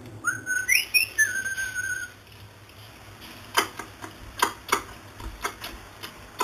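Blue-fronted amazon parrot whistling: a short rising whistle that jumps up in pitch and then holds a steady note for about a second. About a second later come a few sharp, irregular clicks.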